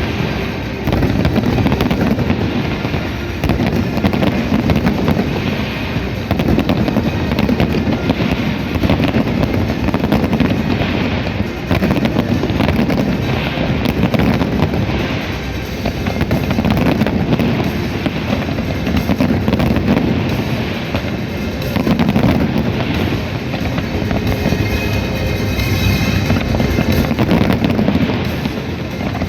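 Dense, continuous barrage of fireworks going off: many overlapping bangs and crackles over a low rumble, swelling and easing in waves.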